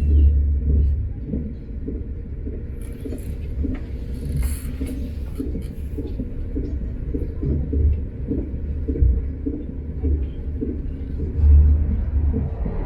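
Train running at speed: a steady low rumble with a run of short repeated knocks from the wheels on the track, swelling briefly near the start and again near the end.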